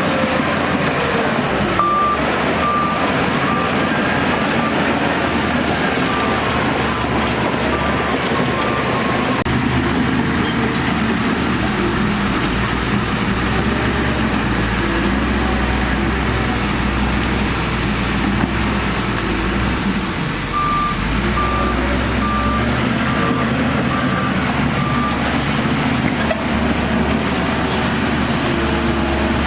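Heavy earthmoving machinery on site: a diesel engine runs steadily under load. A reversing alarm beeps evenly over two stretches, one starting about two seconds in and one after about twenty seconds.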